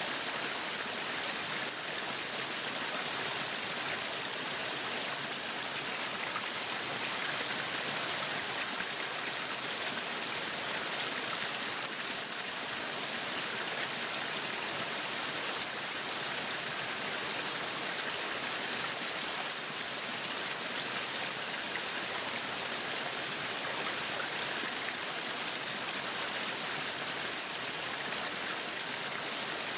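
Meat sizzling on a yakiniku grill: a steady, even sizzle with fine crackling.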